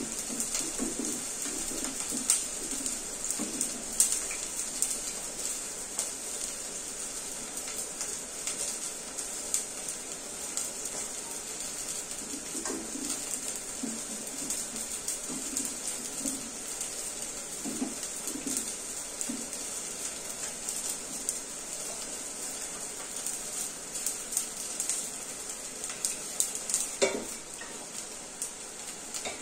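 Green beans frying in hot oil in a steel wok, a steady high sizzle. Scattered clinks and scrapes come from a metal slotted spoon against the pan as they are stirred.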